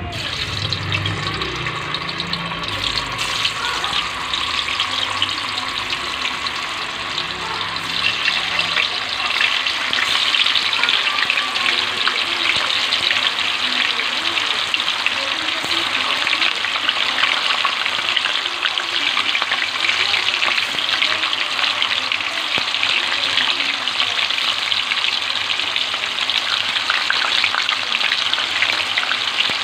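Firm tofu (tokwa) deep-frying in hot oil in a metal wok: a dense, steady sizzle and crackle. It swells about ten seconds in, as more pieces are frying, and then holds steady.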